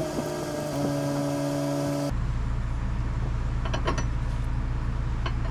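A steady whine of several pitches that stops suddenly about two seconds in, followed by a steady low hum with a few light clicks of small parts being handled.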